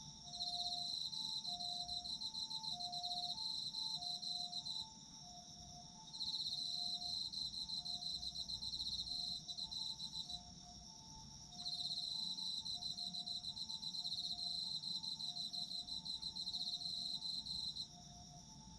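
Autumn crickets chirping: one gives fast pulsed high trills in bouts of about four to six seconds with short pauses between, over another insect's continuous high steady ringing. Soft short lower notes repeat beneath.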